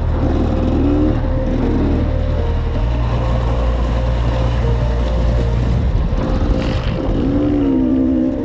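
Enduro motorcycle engine running and revving, mixed with a music track whose low notes are held and change in steps.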